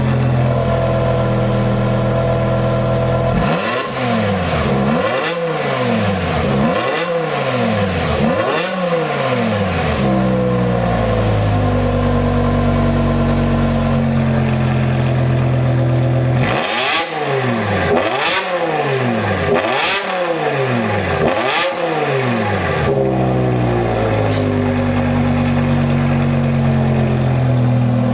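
BMW E60 M5's V10 exhaust, through a stainless X-pipe and a valved quad-exit rear muffler, idling and then blipped four times in quick succession. After a pause at idle it is blipped another four times. The blips run to about 3,000–5,000 rpm.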